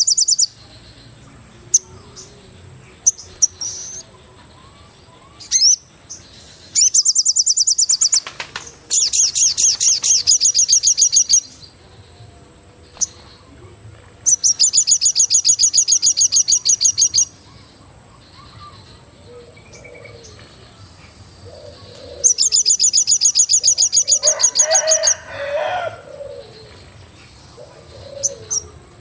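Wild forest birdsong: a loud, very rapid high-pitched trill comes in bursts of one to three seconds, four times, over a thin steady high tone. Softer low cooing calls come in the second half.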